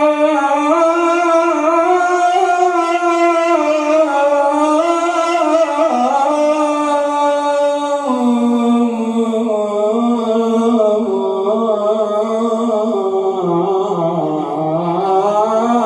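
A solo male voice chanting an Islamic devotional praise line (inshad) as one long melismatic passage of held notes with slow pitch bends. The pitch steps down about halfway through, then dips low and climbs again near the end.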